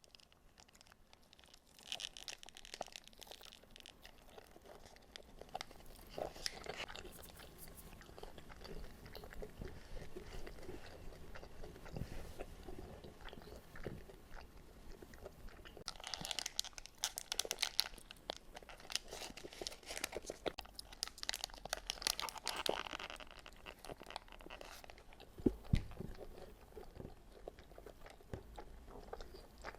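A person biting and chewing crunchy food close to the microphone, with irregular crisp crunches that come thickest in two spells in the second half, and one sharp low knock a few seconds before the end.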